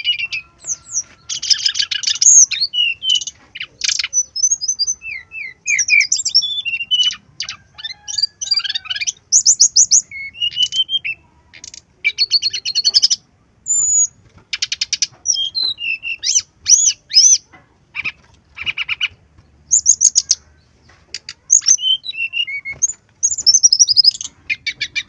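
Brown-chested jungle flycatcher singing a fast, varied song of high chirps, rapid stuttering trills and short whistled glides, in quick phrases broken by brief pauses.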